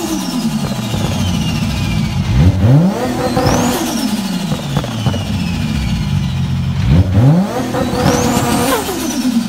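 Turbocharged car engine revving up twice, each time with a high turbo whistle rising and then falling away after lift-off. There is no blow-off valve, so trapped boost bleeds back through the turbo's compressor wheel, the turbo flutter that is hard on its bearings.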